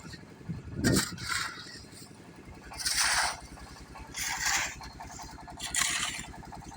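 Repeated scraping strokes about every one and a half seconds, with an engine starting to idle about two and a half seconds in and running on underneath.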